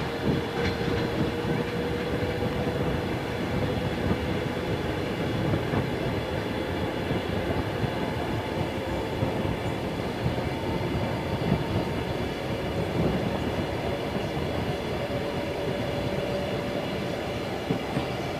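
Freight train of loaded flatcars passing close by: a steady rumble and clatter of steel wheels over the rails, with a faint steady whine.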